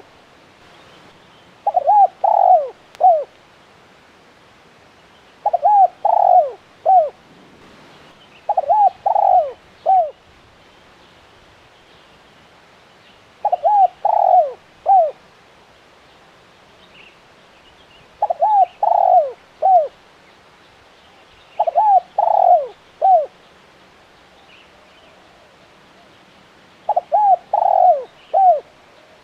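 Spotted dove cooing: seven phrases in a row, each a quick run of three or four coos, repeated every three to four seconds.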